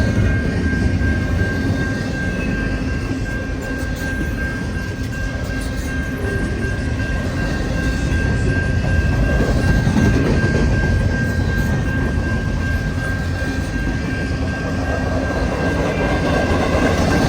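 Freight train cars rolling past on the track: a continuous loud rumble of wheels and cars, with a thin steady high-pitched tone over it.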